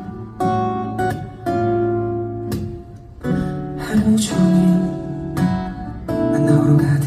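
Acoustic guitar strumming chords at a moderate pace, each chord ringing on until the next stroke.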